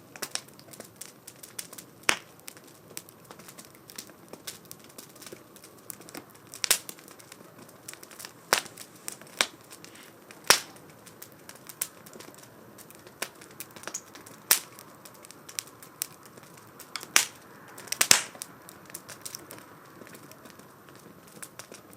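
Wood fire crackling in a small wood stove, with irregular sharp pops, several of them louder, over a low hiss.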